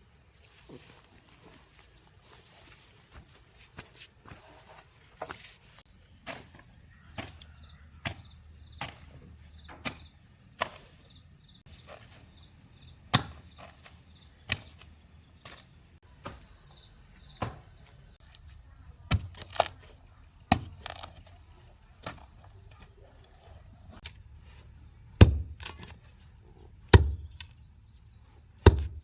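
A steady, high-pitched chorus of insects chirring, shifting slightly lower in pitch about two-thirds of the way through, with irregular sharp knocks of something being struck over it. The knocks grow louder and come a second or two apart in the second half.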